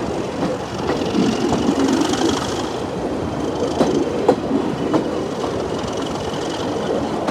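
Diesel-hauled passenger train running along the line, with steady running noise and wheels clicking now and then over rail joints. A faint high wheel squeal comes in twice.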